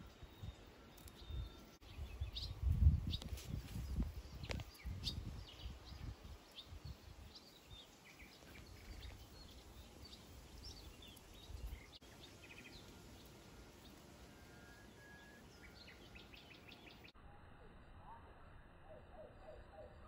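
Small birds chirping in the surrounding trees, with short high chirps scattered throughout. Bursts of low rumble between about two and six seconds in are the loudest sound.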